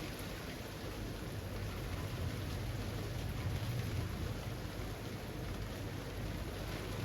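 Steady rain falling through leafy trees, an even hiss of drops. A low rumble swells up in the middle and fades again.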